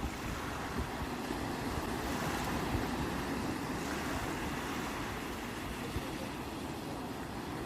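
Sea surf washing steadily, with a low, irregular rumble of wind on the microphone.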